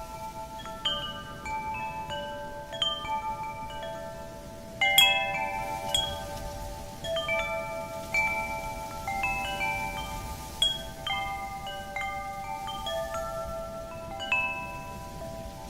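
Wind chimes ringing, their tubes struck irregularly and each note ringing on and overlapping the others, with a strong cluster of strikes about five seconds in. A faint wind hiss runs underneath.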